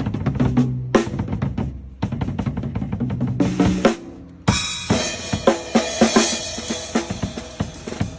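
DW acoustic drum kit played solo: fast fills of drum strokes around the toms, snare and bass drum, with a short break about two seconds in. About halfway through a crash cymbal hit rings out under more strokes.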